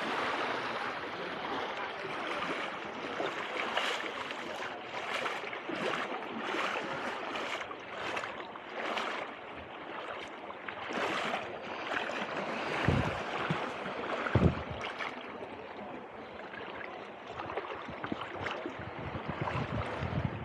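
Small Mediterranean waves washing and splashing at the shoreline in repeated surges, with two short low thumps about two-thirds of the way through.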